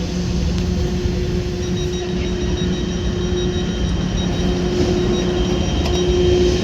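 Electric train approaching along a station platform: a steady hum with a high thin whine joining about two seconds in, slowly growing louder.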